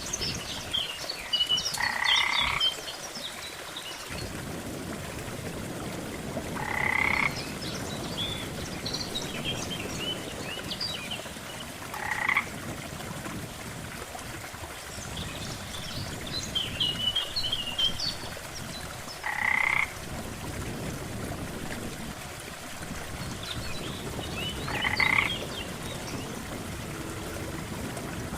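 Frogs croaking at a lake: a loud croak comes about every five seconds, five times in all, with fainter high chirping calls in between and a steady wash of background noise.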